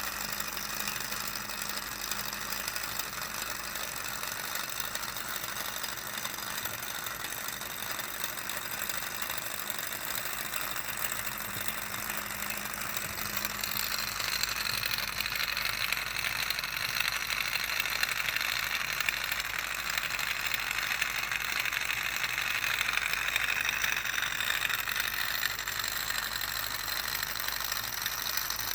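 Small Stirling engine running and driving a Lego vehicle, with a steady fast mechanical rattle and clicking of the engine and Lego drivetrain. It gets a little louder and brighter about halfway through.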